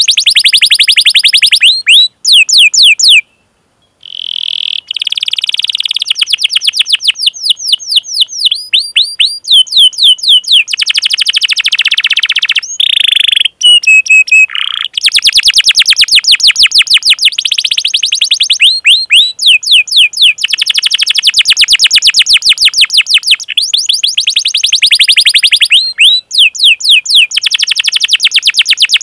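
Domestic canary singing a long, rapid rolling trill of repeated down-slurred 'cuit cuit' chirps, about ten a second, in long runs broken by short pauses.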